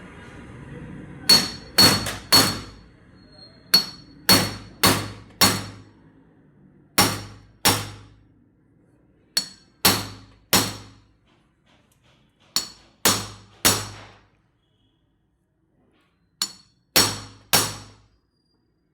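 Hammer blows on metal, seating the bush fitted into the stripped spark plug hole of a Honda CD 70 cylinder head. About eighteen sharp, ringing strikes come in quick groups of two to four, with short pauses between the groups.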